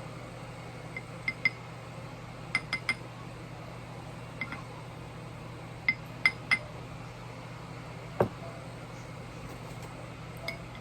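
A spoon clinking against a glass, mixing vinegar and red food coloring. The taps come in small clusters of two or three with gaps between, and there is one duller knock about eight seconds in, over a steady low hum.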